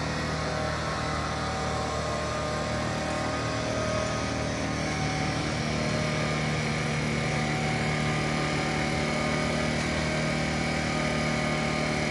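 Fire truck engine running steadily at a constant speed, holding an even pitch.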